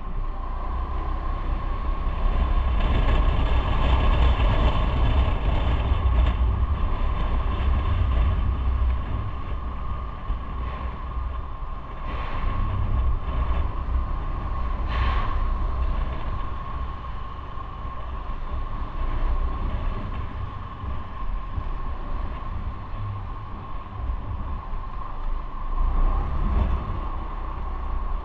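Motorcycle running on the move, a steady engine note with deep rumble underneath.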